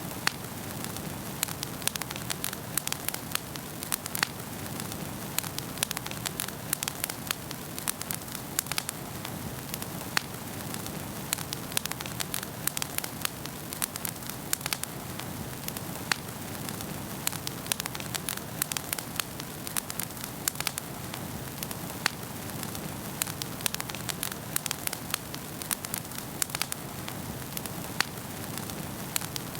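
Wood fire crackling in a fireplace: a steady low rush of flames with frequent sharp, irregular pops and snaps.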